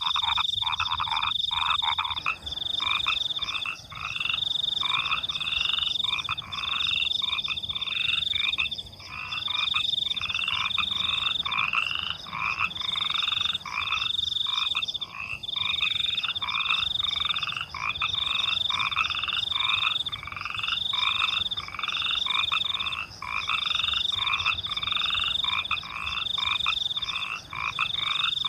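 Night chorus of frogs croaking, their calls repeating about once a second without let-up, over the high, pulsing chirping of crickets.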